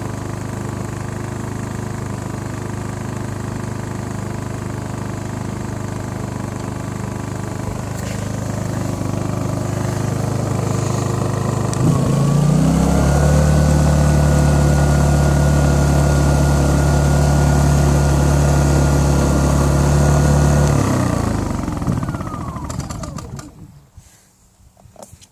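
Hyundai HY2000si inverter generator's small four-stroke engine running steadily, then revving up to a higher speed about halfway through and holding there. Near the end it winds down and stops.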